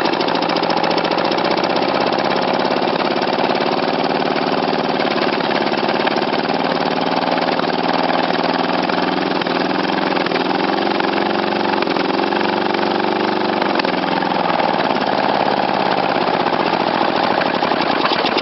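11.5 hp Briggs & Stratton engine running just after a cold start, its speed wavering up and down rather than settling into an idle. The owner puts this down to an intake air leak: a screw and a gasket are missing from around the inlet manifold.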